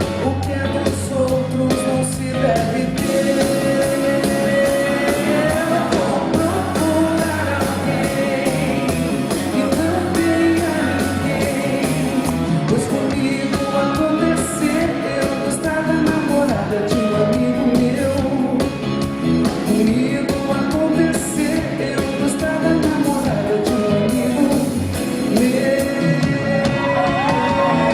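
Live band music with a singer's voice, played at a steady, full level.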